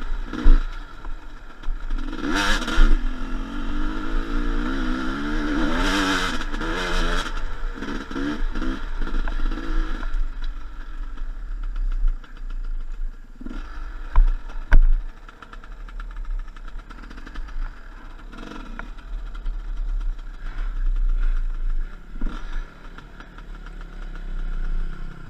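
Enduro motorcycle engine running off-road, revving up and down in bursts, with a few sharp knocks.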